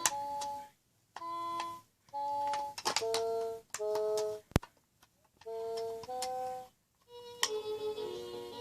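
VTech Explore & Learn Helicopter toy's speaker playing short electronic chime phrases, several in a row separated by brief silences and sharp clicks, then going into a tinny synthesized tune near the end.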